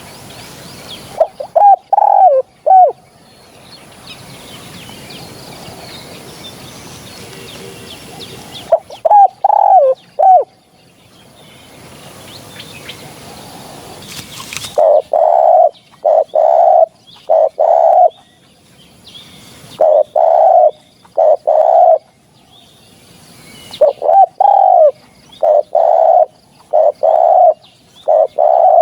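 Spotted dove cooing: loud, low phrases of several coos each, separated by pauses, with a long run of coos in the second half. This is a lure call for attracting spotted doves.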